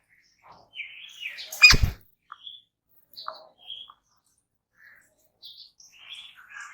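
Jungle babblers calling with short, scattered chirps and squeaks, and one loud thump just under two seconds in.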